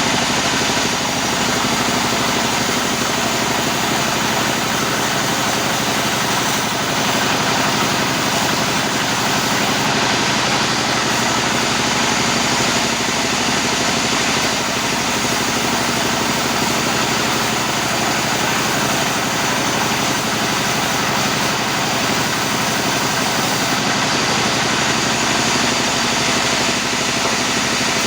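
Sawmill machinery running steadily: a loud, even mechanical noise with a faint steady hum, unbroken throughout.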